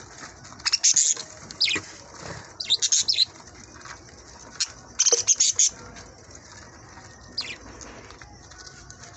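Budgerigars chirping in short clusters of sharp, high calls, the loudest bursts about one, three and five seconds in.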